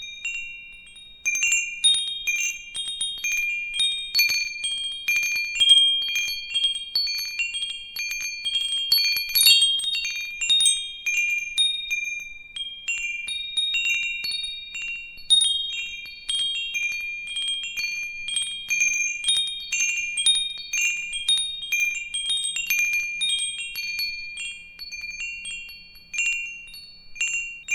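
Wind chimes ringing in irregular, random strikes: several high tones overlapping and ringing on, with a brief lull about a second in.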